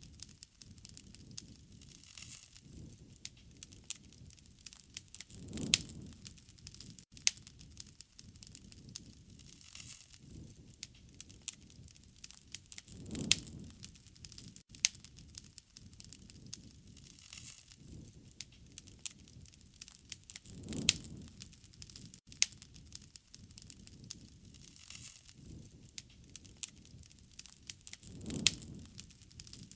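Wood fire crackling, with many sharp pops and snaps and a low rushing swell about every seven or eight seconds.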